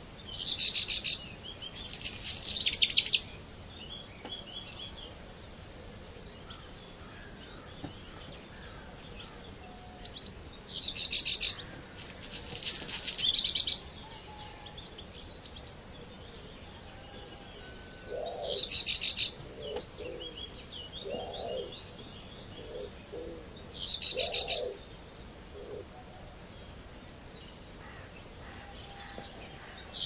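Songbirds in the dawn chorus. One bird close by repeats a loud, fast, high trilled phrase about a second long, sometimes twice in quick succession, every several seconds. Fainter calls from other birds fill the gaps.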